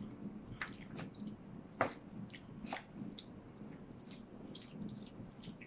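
Quiet chewing of sushi close to the microphone, with scattered small clicks and mouth smacks and one sharper click about two seconds in.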